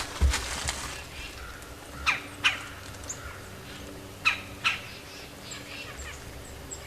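Bird calls: two pairs of short, sharply down-sliding calls, about two seconds apart, with a few faint high chirps from small birds in the background.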